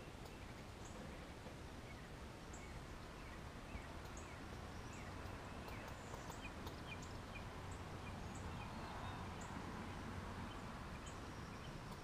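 Backyard songbirds calling faintly: thin, very high short notes about once a second, with scattered short downslurred chirps, over steady outdoor hiss. A faint low hum swells and fades in the second half.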